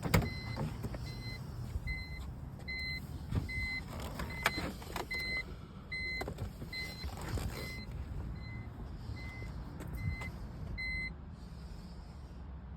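A short electronic beep of one pitch repeats roughly twice a second for about eleven seconds, then stops. A few knocks and clunks fall between the beeps, the loudest right at the start.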